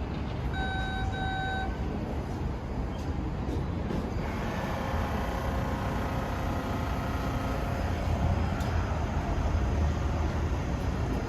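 A train at a station platform: a low rumble throughout, two short electronic beeps near the start, then from about four seconds in a steady multi-tone whine as the train's motors run and the sound grows a little louder.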